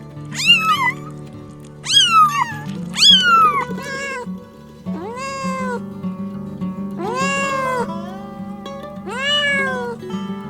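A cat meowing repeatedly, about six separate calls that each rise briefly and fall in pitch, over steady background music.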